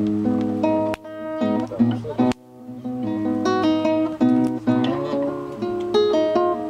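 Acoustic guitar playing, with plucked and strummed notes; it breaks off briefly about two and a half seconds in, then carries on.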